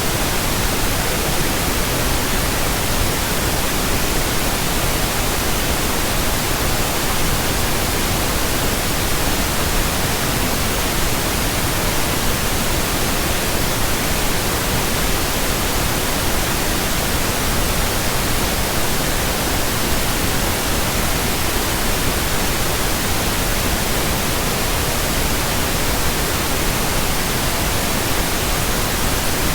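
Steady pink noise: an even, unchanging hiss across the whole range, with nothing else in it.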